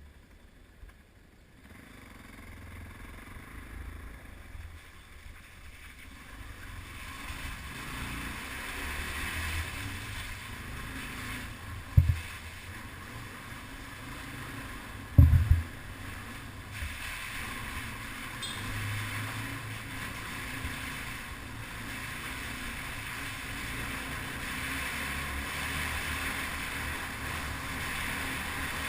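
Yamaha TT-R250 trail bike running with a low engine rumble while wind rushes over the microphone, the wind noise building after the first couple of seconds. Two heavy knocks a few seconds apart past the middle.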